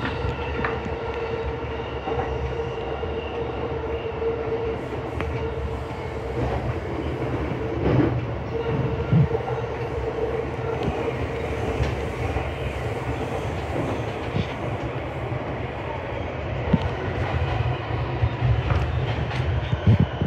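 Keihin-Tohoku line electric commuter train running between stations, heard from inside the car: a steady low rumble of wheels on rail with scattered clicks from the track and a steady hum that drops out for about two seconds a quarter of the way through.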